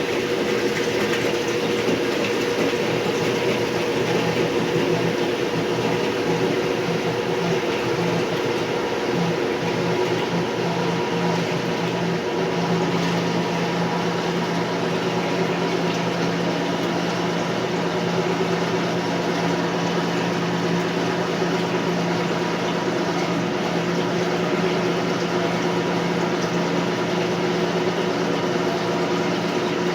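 Lavínia washing machine in its spin cycle: motor and drum running steadily, with water noise and a hum that settles into a steady tone about twelve seconds in.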